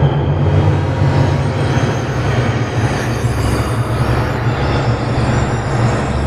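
Electronic ambient soundscape: a dense, steady low rumble with a noisy wash above it and faint high sustained tones, with no breaks or distinct events.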